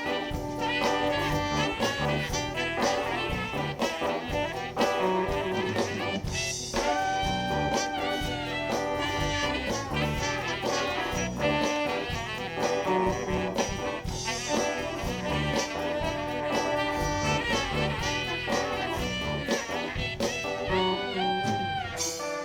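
Live soul band playing an instrumental passage: brass and tenor saxophone lines held over a steady drum beat and bass.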